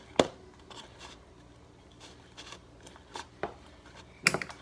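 Irregular clicks and taps of a spoon against the container while slime is stirred with added activator, with one sharper knock just after the start and a quick cluster of taps near the end.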